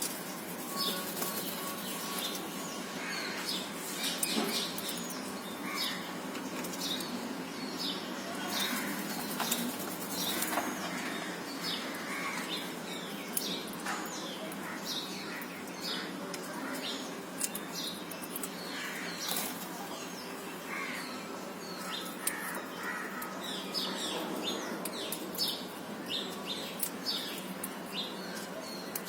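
Parrots chirping: many short, high calls repeated over and over, several a second, over a steady rustling background.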